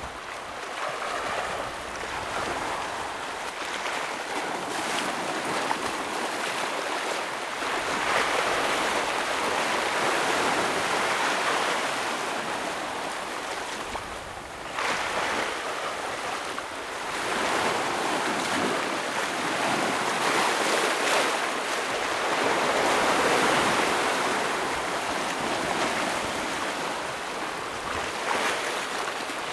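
Ocean waves breaking on a rocky shore, a continuous wash of surf that swells and ebbs every few seconds as each wave comes in.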